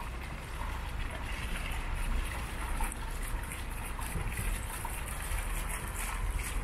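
Steady rumbling and hissing background noise with a faint crackle, like wind buffeting the microphone.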